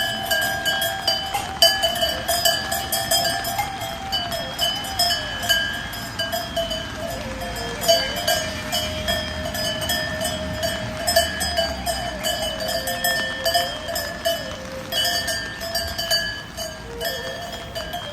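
Bells on a flock of sheep or goats clanking and ringing continuously as the animals move, several bells overlapping with a dense run of clinks.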